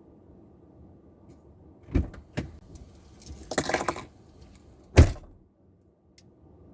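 Car cabin sounds over a low steady hum: two sharp clicks, a brief rustle, then a car door shutting with one loud thump about five seconds in.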